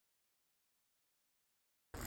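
Dead silence, broken just before the end by a sudden start of dense, steady noise.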